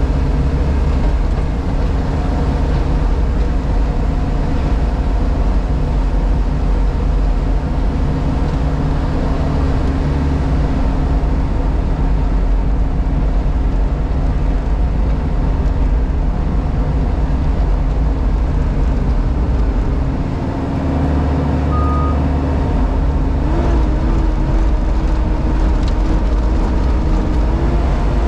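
JCB Pothole Pro's diesel engine running steadily, heard from inside the cab as a loud, even drone. Near the end, one of its tones steps up slightly in pitch.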